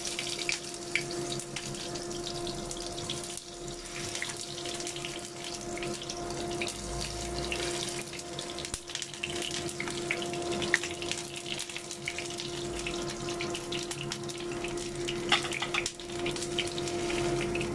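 Fish-paste-stuffed green pepper pieces sizzling and crackling in hot oil in a small frying pan, with a few sharp pops or taps now and then. A steady low hum runs underneath.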